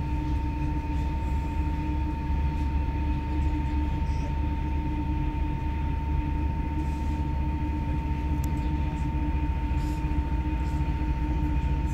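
Inside a moving electric passenger train: the steady rumble of the train running at speed, with a constant high tone held throughout.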